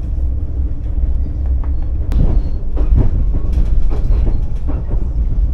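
Passenger train running on the rails: a heavy low rumble with irregular clacks and knocks from the wheels passing over the rail joints.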